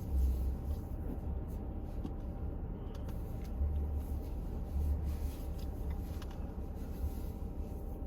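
A car driving, heard from inside: a steady low engine and road rumble that swells several times, with a faint steady hum.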